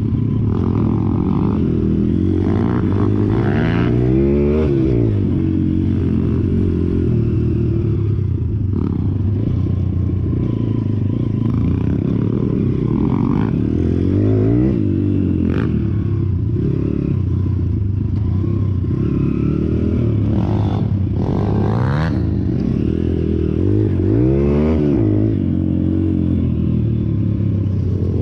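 Pit bike engine running steadily, with the revs rising and falling several times.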